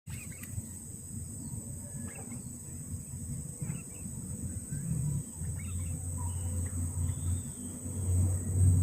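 Sooty-headed bulbuls (kutilang) giving short calls, faint and a second or two apart, over a steady high insect drone and a louder low rumble.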